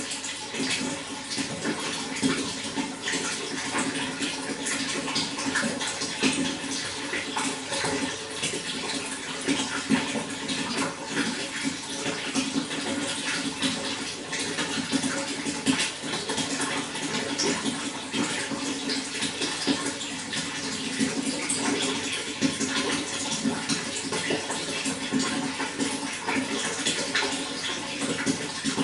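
Running water flowing steadily, with a constant rush full of small splashes and gurgles.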